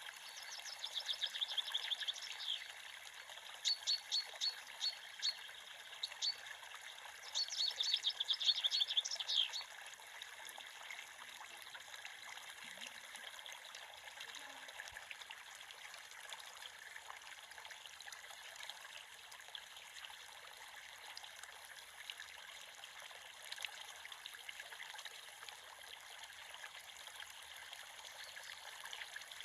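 Creek water trickling and babbling steadily. A small bird sings rapid high trills in three bursts during the first ten seconds.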